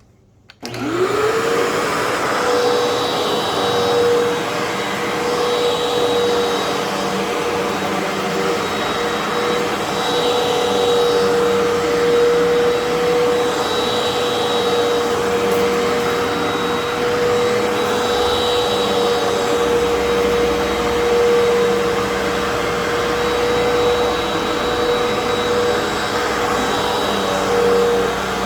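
Fantom Fury vacuum cleaner switched on about half a second in, its motor whine rising quickly to a steady pitch, then running steadily while vacuuming carpet. The rushing hiss swells and fades about every four seconds as it is pushed back and forth.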